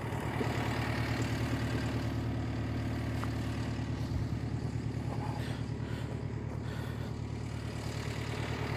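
Diesel engine of a Volvo compact track loader (skid steer) idling steadily with an even low throb.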